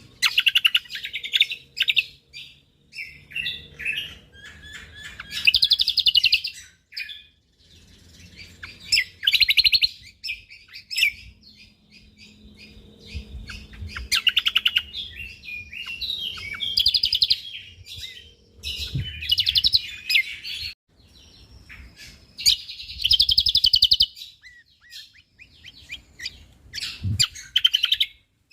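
Cucak kombok (kecial kombok) singing: dense, rapid-fire bursts of high chattering trills, one phrase after another with short pauses between.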